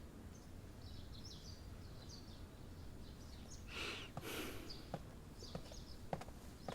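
Faint bird chirping, short high calls repeating throughout. About four seconds in come two brief swishes, then a run of light knocks about every half second.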